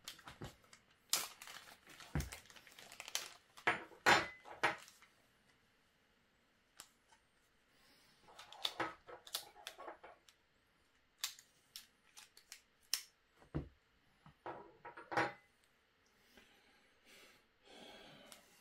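Hands handling small plastic printer parts: irregular sharp clicks and taps with some rustling, a couple of dull knocks among them.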